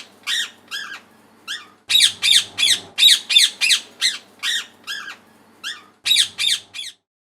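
Parrot squawking: runs of harsh, loud calls at about three a second, with two short pauses, stopping just before the end.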